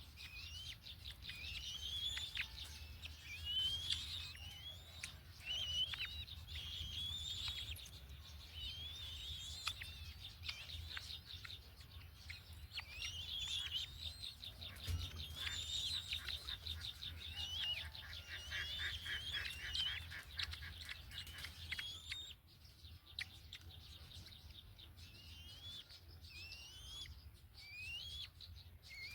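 Black-winged kite chicks calling: many short rising chirps repeated again and again, with quick rapid trains of notes in the middle and a quieter spell near the end, over a faint steady low hum.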